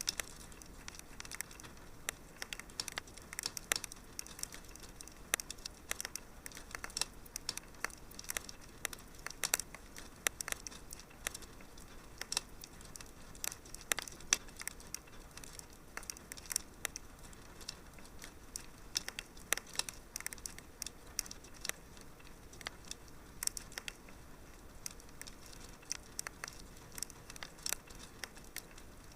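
Wood fire crackling steadily in a fireplace, with irregular sharp pops and snaps over a soft hiss.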